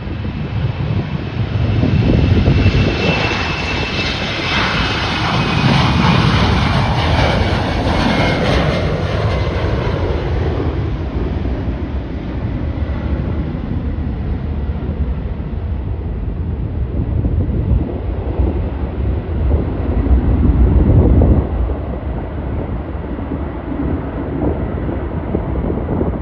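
Airliner engines passing close by: a loud rumble with a high whine that slides down in pitch over the first ten seconds, then settles into a steadier drone that slowly fades.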